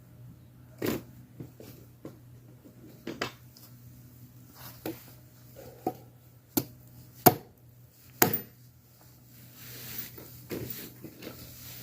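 Chopping on wood: a string of separate sharp knocks and taps spaced irregularly, the loudest two close together about seven and eight seconds in, over a faint steady hum.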